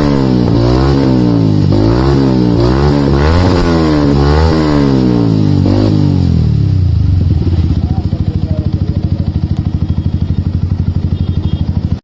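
Yamaha R15's single-cylinder four-stroke engine through an aftermarket exhaust, revved up and dropped back about half a dozen times in quick succession. It then settles to a lumpy idle with an even pulsing beat for the last few seconds.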